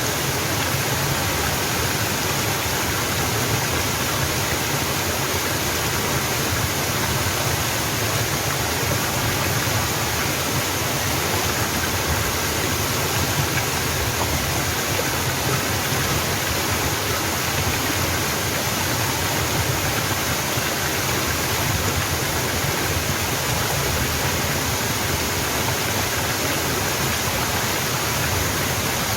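Mountain waterfall rushing steadily, an even, unbroken hiss of falling water.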